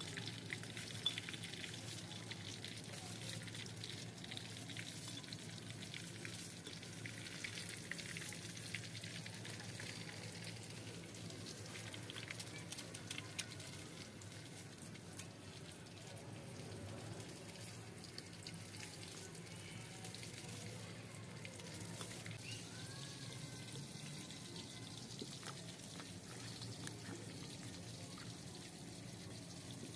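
Food frying in a cooking pot, a steady sizzle with fine crackles throughout, over a steady low hum.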